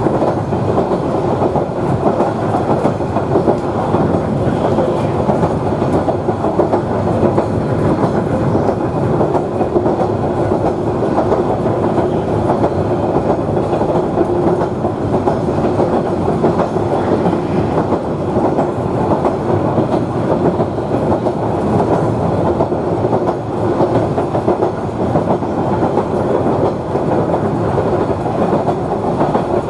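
2000 class diesel railmotor running along the track at a steady speed: a continuous rumble of wheels on rail with an even engine drone underneath.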